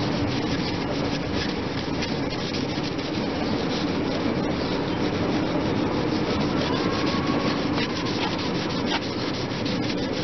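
Steady hand rubbing on a motorcycle's chrome exhaust pipe, polishing it with compound to bring up the shine after the rust spots are removed.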